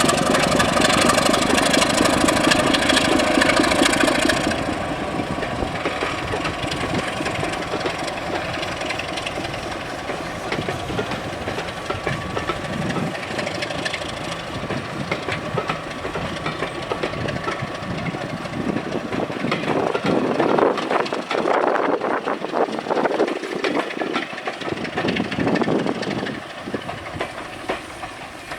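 A train on the move: a steady noise that changes abruptly about four seconds in, then wheels clicking over rail joints in the last several seconds.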